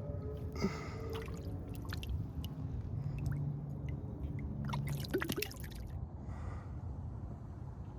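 Water splashing and dripping in two short flurries, about half a second in and again about five seconds in, over a steady low background noise.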